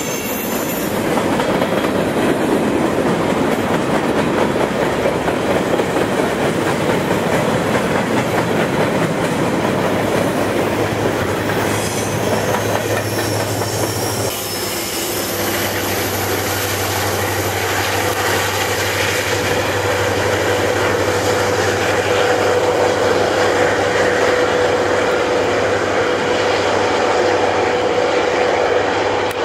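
Freight train passing close by on a climbing grade: covered hopper cars rolling with clicking wheels and brief high wheel squeal, then diesel locomotives working under load with a steady engine drone and a steady whine in the second half.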